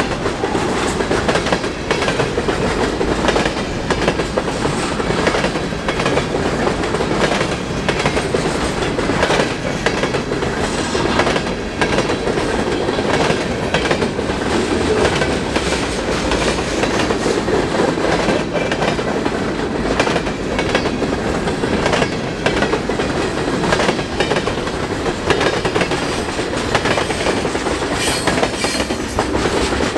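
Freight train cars rolling past at steady speed: a continuous rumble with wheels clacking rhythmically over rail joints.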